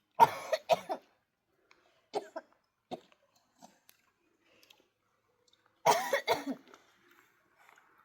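Coughing: a sharp double cough just after the start, a few fainter short coughs or throat noises over the next few seconds, then a run of three coughs about six seconds in.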